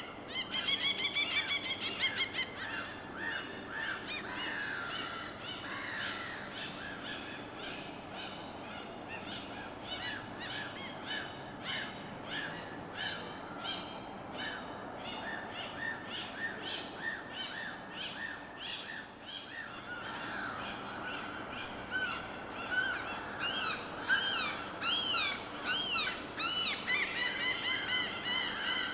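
Many birds calling over a steady wash of water. A loud, rapid series of calls comes in the first couple of seconds, short chirps run throughout, and a run of loud arching calls comes about three-quarters of the way through.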